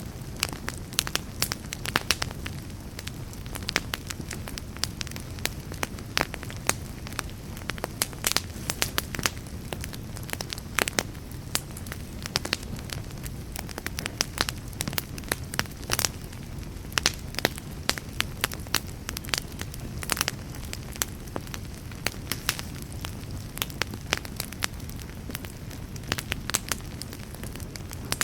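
Wood fire burning with a steady low rumble and irregular sharp crackles and pops, several a second.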